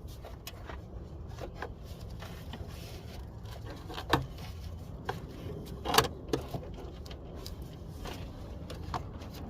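Hand work under the hood while the air intake is refitted: scattered clicks and knocks, the loudest about six seconds in, over a steady low hum.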